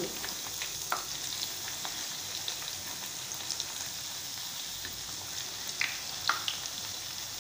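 Potato fritters shallow-frying in hot oil in a pan: a steady sizzle with scattered crackles and a few sharper pops, as the fritters are turned over with a spatula.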